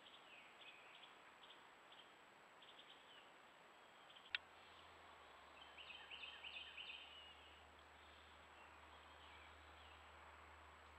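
Near silence with faint bird chirps throughout, thickening into a brief flurry about six to seven seconds in. A single sharp click about four seconds in, followed by a faint low hum.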